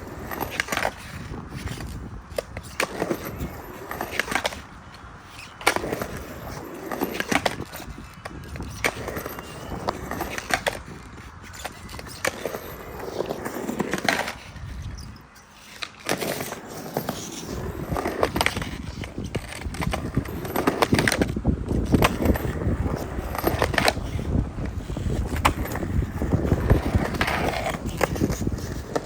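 Skateboard rolling and carving around a concrete mini bowl, the wheels running steadily, with repeated sharp clacks and scrapes as the trucks hit the coping for 50-50 stalls and grinds.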